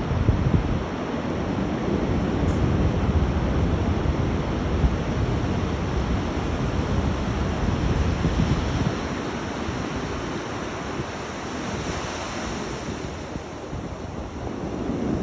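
Rough sea surf breaking and washing up the beach, with wind buffeting the microphone. It is louder for the first half, then eases.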